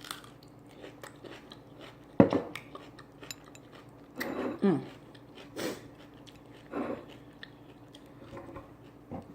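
Biting into a crunchy baby dill pickle and chewing it: one sharp crunch about two seconds in, then several shorter crunchy chews.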